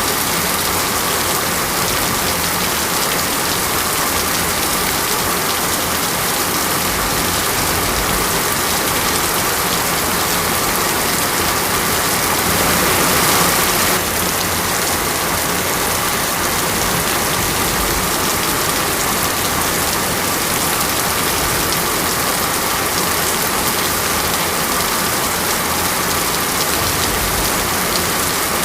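Steady rain falling, a dense, even hiss of drops on surfaces. It swells a little about halfway through, then drops back suddenly.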